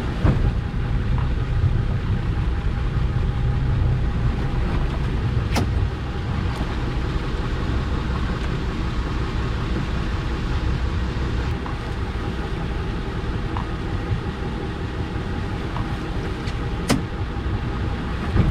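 A boat's engine running steadily with a low drone, and two sharp clicks, one about six seconds in and one near the end.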